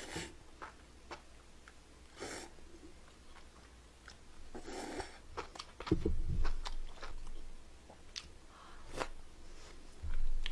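Close-miked eating sounds: a mouthful of noodles slurped in, then wet chewing and mouth clicks, louder about six seconds in.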